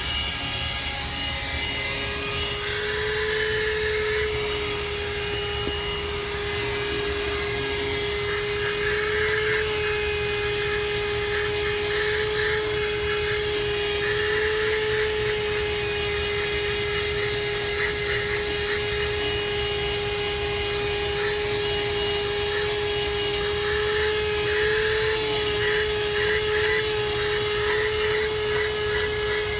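Handheld 12 V car vacuum cleaner running steadily, its motor giving a constant whine over a rush of air, with patches of light rattling now and then.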